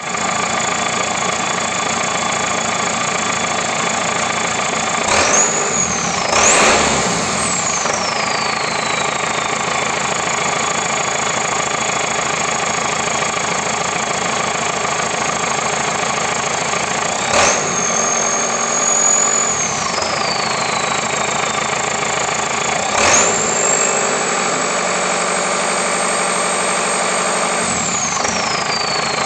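Perkins 1004 four-cylinder diesel engine of a JCB 4CX backhoe loader running on its first start after a full rebuild. It idles steadily and is revved several times: brief blips about five and six seconds in and again near seventeen seconds, then held at higher revs from about 23 seconds before falling back to idle near the end.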